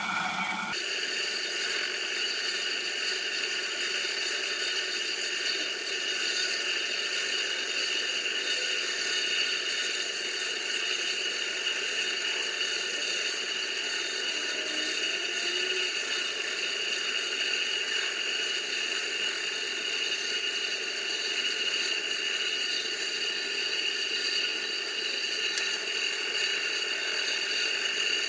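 Gingery milling machine running a facing cut with a new cutter: a steady high-pitched whine over a hiss of cutting.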